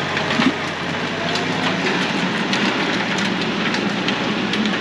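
A tractor pulling a heavy chisel-disc harrow through rough ground: a continuous clatter and rattle from the implement over steady engine noise.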